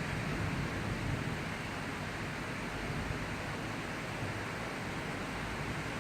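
Steady rain of a thundery shower, an even hiss with no thunder.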